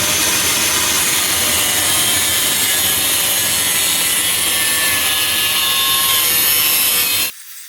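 Angle grinder grinding across a mild steel bar to grind out drilled holes: a loud, steady rasping hiss with a faint wavering whine, which stops abruptly near the end.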